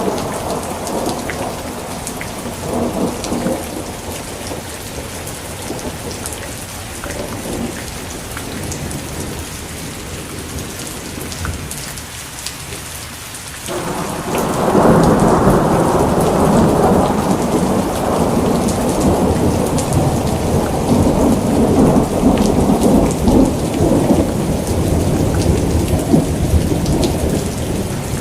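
Steady rain falling, with rolling thunder. A rumble dies away over the first half, then a new, louder peal breaks in about halfway and rumbles on to the end.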